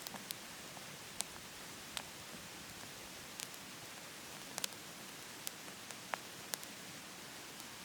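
Wood fire in a wood-burning stove crackling: about ten sharp, irregular pops over a steady hiss.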